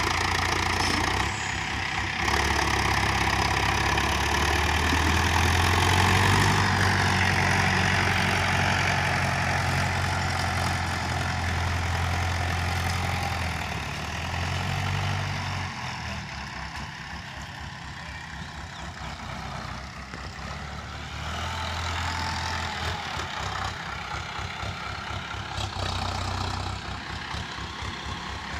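Preet tractor's diesel engine running. Its note is fuller and louder for roughly the first half, eases off about halfway through, then swells again briefly a few seconds later.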